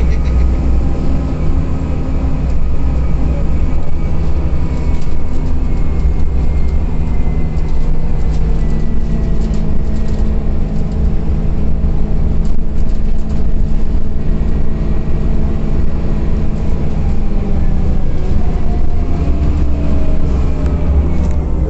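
Scania OmniCity CNG city bus under way, heard from inside the cabin: a steady low rumble of the gas engine and road noise. Whining drivetrain tones drift in pitch as speed changes, then fall near the end as the bus slows.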